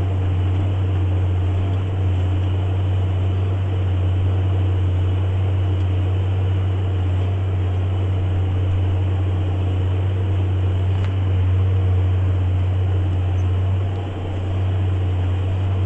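JCB Fastrac 8250 tractor running steadily under load while ploughing, a constant deep engine drone.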